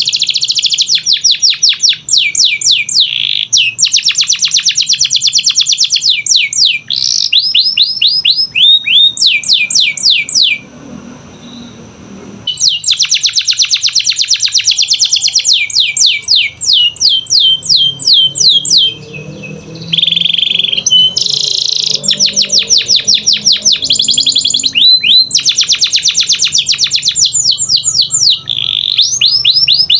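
Domestic canary singing: long, high-pitched phrases of fast trills and rolls, many ending in a run of quick falling notes. It pauses briefly twice.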